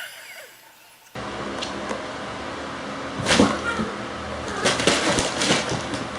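A house cat's sounds over a steady background hiss that starts about a second in, with a few louder outbursts in the second half.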